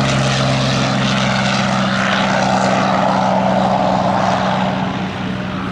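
Curtiss P-40K Warhawk's Allison V-12 engine running at takeoff power as the fighter departs, a steady loud drone that begins to fade near the end as it moves away.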